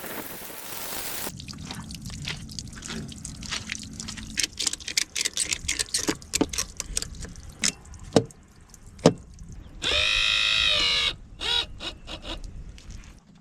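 Water trickling and dripping in an old bass boat's bilge, leaking in from the live well, with many sharp clicks and knocks of handling. A brief whine about ten seconds in.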